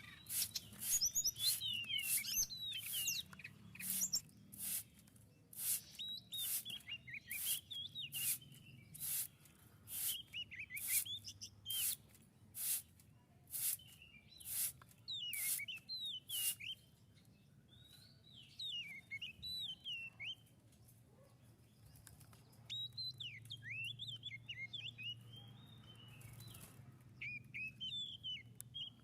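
A tledekan laut songbird singing in short bursts of quick, twisting high chirps, with many sharp clicks in between.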